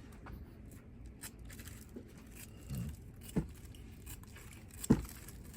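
Old monofilament fishing line being cut with a razor knife into short pieces: a few sharp, separate snicks and clicks over faint handling noise.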